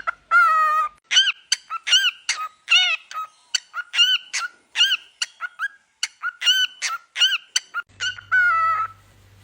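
Cockatiel chirping: a long run of short, arching whistled chirps, two or three a second, with a longer drawn-out call at the start and again near the end.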